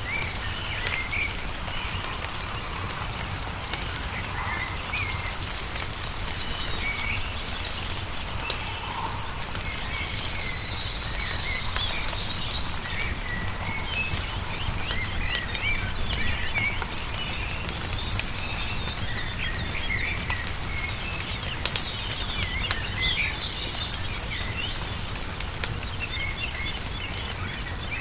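Songbirds chirping with many short, rising and falling calls, over the crackling and popping of a wood fire. A steady low rumble runs underneath.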